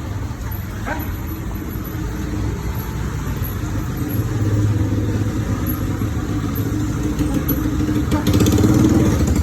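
A motor vehicle engine running steadily, growing gradually louder toward the end.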